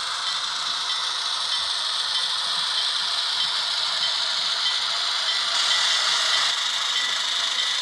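HO-scale model train rolling along the track: a steady high rattle and hiss of small metal wheels on rail and the locomotive's motor and gears.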